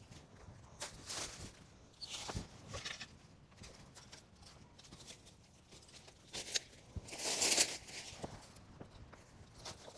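Brushy branches and dry leaves rustling and crackling in irregular bursts, with footsteps, as cut branches are handled and stacked into a dead hedge. The loudest, longest crackle comes about seven seconds in.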